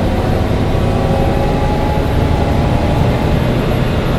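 Mercedes-Benz O405 N1 low-floor city bus heard from inside while driving: a steady, loud engine and running noise with a faint whine above it.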